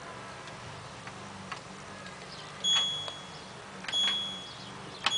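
LG F1222TD washing machine's control panel beeping as the programme dial is turned: three short, fading beeps about 1.2 s apart, each starting with a click, from about halfway in, after a few faint clicks.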